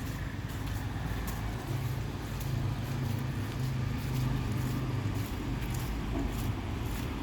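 Street traffic: a motor vehicle's engine running close by, its low hum loudest from about two to five seconds in, over general street noise.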